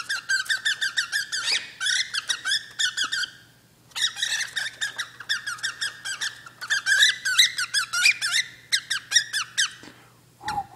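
Pet bird giving rapid, agitated runs of short, high chirps, several a second, in two long bouts with a brief pause between them. The agitated calling comes after it laid an egg with no male in the cage, which the owner calls having a fit.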